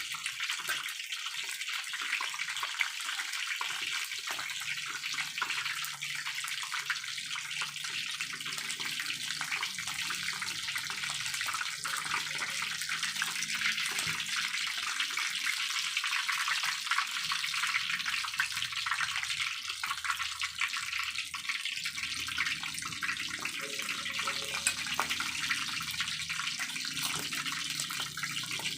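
Cornstarch-coated chicken pieces deep-frying in hot oil: a steady, dense sizzle full of fine crackles.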